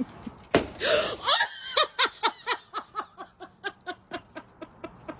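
A person laughing hard: a sudden loud burst about half a second in, then a long run of quick, even 'ha' pulses, about four a second, that fade toward the end.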